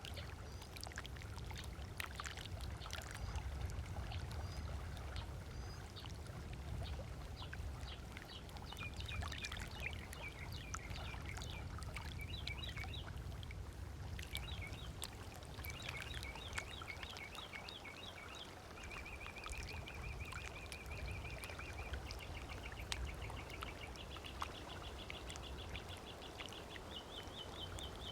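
Small waves lapping on a sandy lakeshore with a steady low wash and light splashes. About a third of the way in a bird starts singing: runs of rapid repeated chirps, with a fast even trill past the middle.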